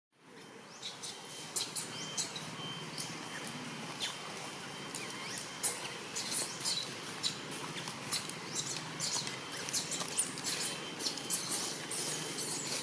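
Baby monkey giving short, high-pitched squeaks and chirps again and again at an irregular pace.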